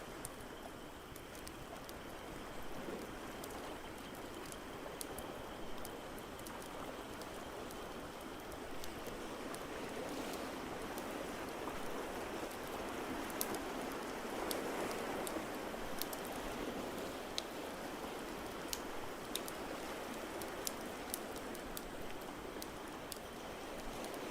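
Steady wash of ocean waves, swelling about halfway through, mixed with the sharp crackles and pops of a wood fire.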